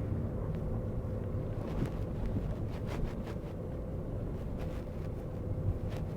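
Car driving slowly, heard from inside the cabin: a steady low rumble with a few faint clicks.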